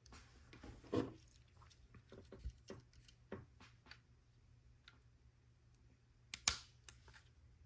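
Small plastic Lego pieces being handled: scattered light clicks and rattles as bricks are picked up and fitted, with two sharper clicks about six and a half seconds in as pieces snap together.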